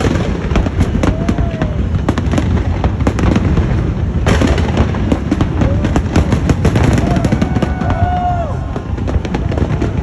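A fireworks display going off: continuous bangs and crackling shell bursts in rapid succession, with a few short rising-and-falling calls from the crowd.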